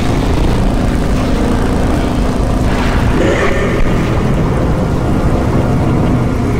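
Loud, steady low mechanical rumble with a faint steady hum, like a heavy engine drone, from an animation's sound effects.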